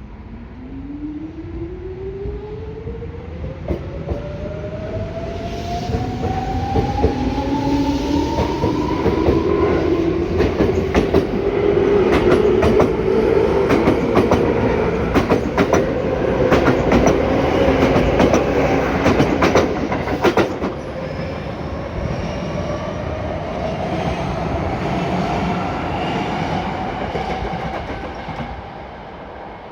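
Tobu 9000 series electric train pulling away from the platform: the traction motors' whine climbs steadily in pitch as it gathers speed. Over the middle of the stretch, the wheels clatter rapidly over rail joints as the cars pass. The sound eases off near the end.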